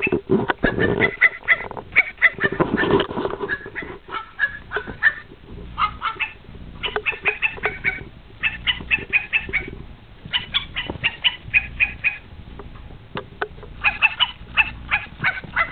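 Ferrets dooking: quick clucking chuckles in bursts of about a second, again and again, the excited chatter of playing ferrets.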